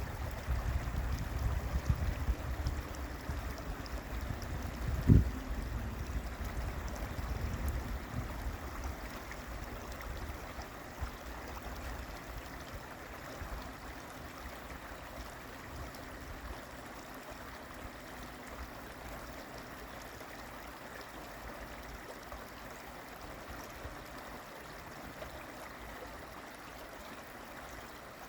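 Steady rush of flowing water, like a stream. A low uneven rumble in the first several seconds fades away, and there is a single thump about five seconds in.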